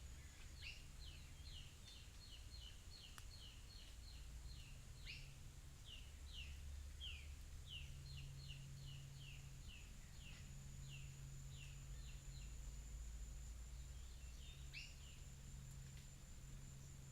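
A bird calling faintly: a long series of short, quick, down-slurred notes, about two or three a second, that runs for about ten seconds, stops, and returns with a few more notes near the end. A steady thin high tone and a low rumble lie beneath it.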